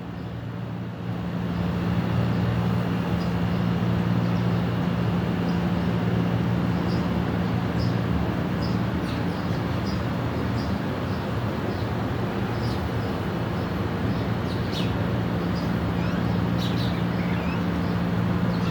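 Sparrows and common mynas giving scattered short, high chirps, more often in the second half, over a steady low hum of traffic.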